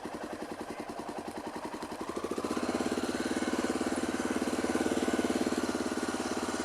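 Single-cylinder, air-cooled dirt bike engine running with an even, rapid pulse at low revs, then picking up, louder and higher, about two seconds in.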